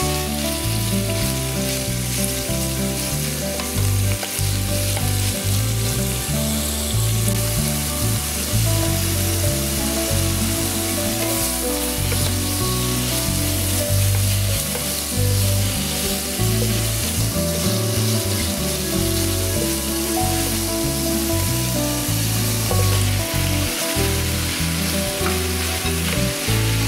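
Thin pork slices, then napa cabbage, sizzling steadily in a hot non-stick frying pan while being turned and stirred with cooking chopsticks, over background music.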